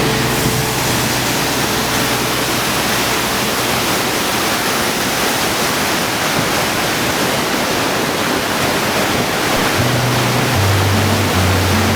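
Waterfall rushing over rocks: a loud, steady hiss of falling water. Low held notes of background music come in near the end.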